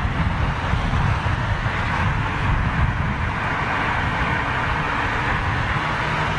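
Jet airliner's engines at take-off power as it departs, a loud, steady rumble.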